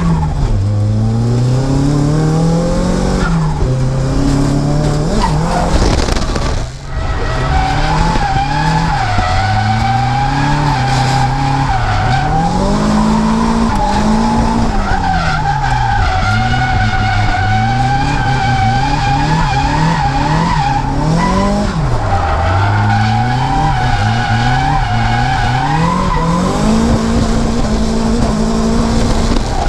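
Nissan S14's turbocharged SR20DET four-cylinder engine revving up and falling back again and again through drift runs, over a steady tyre squeal from the sliding rear tyres. The sound dips briefly about seven seconds in.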